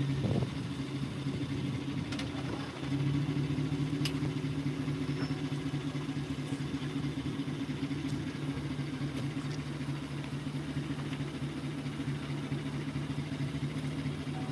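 Vehicle engine idling with a steady low hum, with a couple of faint clicks over it.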